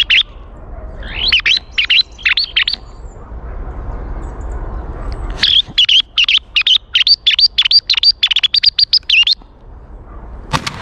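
Birds chirping: groups of short high calls, with a long fast run of them from about five and a half to nine seconds in. A single shotgun shot goes off right at the end.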